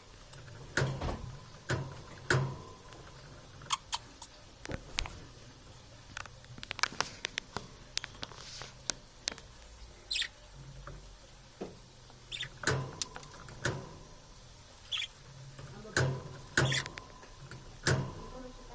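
Parrots giving short, high squeaky chirps, about one every two or three seconds, among sharp clicks and taps.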